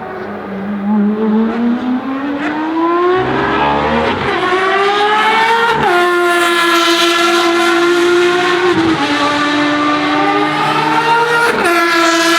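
Ferrari FXX Evoluzione's V12 racing engine at full throttle: the revs climb for about four seconds, then it shifts up four times, each shift a sudden short dip in pitch. The sound grows louder over the first second as the car comes closer.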